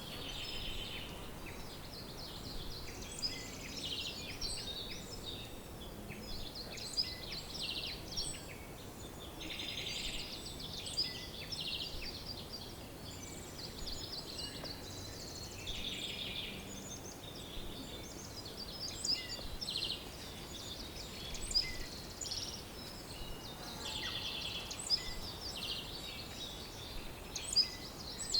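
Several songbirds singing together, a continuous overlapping chorus of quick trills and chirps over a faint background hiss.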